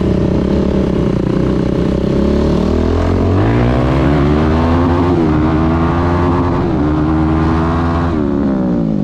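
Yamaha YFZ450R quad's single-cylinder four-stroke engine running through a Rossier R5 aftermarket exhaust: steady at first, revving up about three seconds in, holding high revs, then dropping off near the end.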